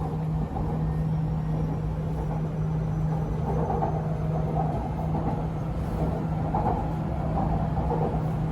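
Running noise heard inside the cabin of an MRT Purple Line electric train travelling between stations: a steady rumble with a constant hum.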